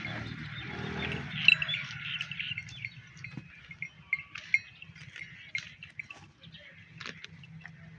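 Birds chirping with many short, quick calls over a steady low background hum, with scattered sharp clicks.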